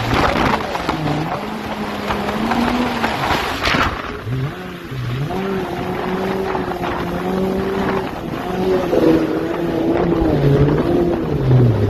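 Jet ski engine running under way, its pitch rising and falling as the throttle changes, over a hiss of water spray and wind. The hiss drops back about four seconds in.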